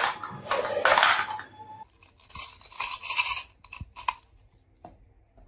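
Marbles rolling and clattering down a wooden marble run track. The rattling is loud for the first second and a half, then quieter with a few sharp clicks, and it dies away after about four seconds.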